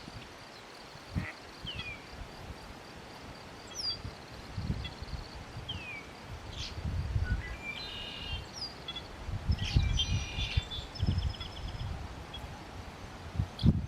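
Wild birds calling: a few short, downward-sliding whistles and several rapid stacked chirps. Irregular low rumbling noise runs underneath.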